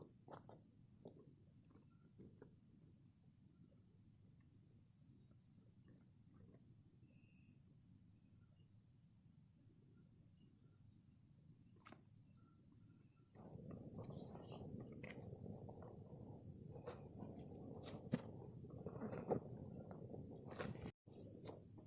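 Night insect chorus: a steady, high-pitched shrill trill running without a break. About two-thirds of the way through, a low rustling noise with a few sharp clicks joins it.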